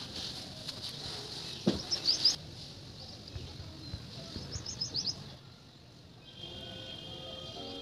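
Small birds chirping in short runs of quick rising chirps over a steady outdoor hiss, with a brief low falling sound about two seconds in. Soft music with held notes comes in about six seconds in.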